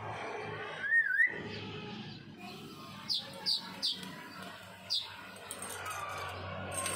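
A bird calling: one loud wavering whistle about a second in, then four short, quick, downward-sliding chirps a few tenths of a second apart, the last one about a second after the others.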